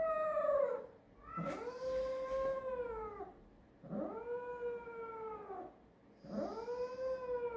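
Six-month-old cat yowling in long drawn-out meows, each rising and then falling in pitch: one call tailing off about a second in, then three more of about two seconds each. She is a stressed cat protesting while held in a towel for a blood draw from her foreleg.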